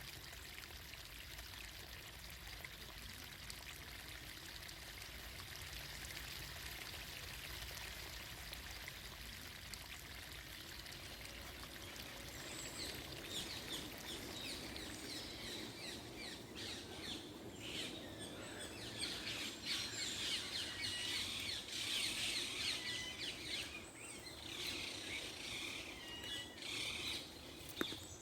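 Running water, a steady pouring trickle, with birds chirping and calling that join in about halfway and grow busier toward the end.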